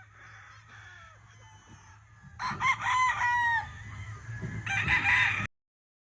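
Rooster crowing loudly about two seconds in, after fainter crowing from other roosters, with another loud burst a little later. The sound cuts off abruptly about a second before the end.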